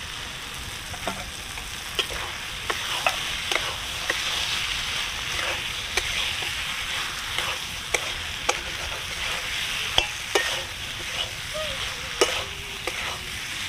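Fried potato and soya chunks sizzling in hot spice paste and mustard oil in a metal kadai, stirred with a metal spatula that scrapes and knocks against the pan now and then.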